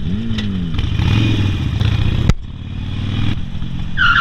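Motorcycle engines running in traffic, one revved up and back down at the start, then a steady low engine drone. A sharp click comes about two seconds in, and a brief high-pitched tone near the end.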